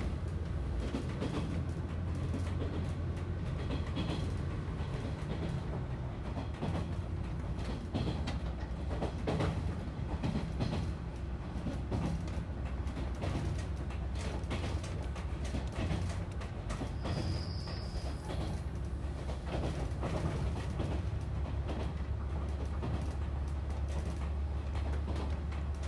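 Inside a moving diesel railcar: the steady low rumble of the engine and running gear, with wheels clacking over rail joints and the carriage creaking. A brief high squeal sounds about two-thirds of the way in.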